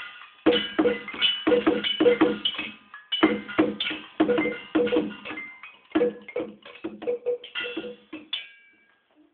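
Ensemble of pitched found-object percussion struck in a quick, steady beat, ringing knocks on several notes. There is a short break right at the start, and the piece ends about eight and a half seconds in.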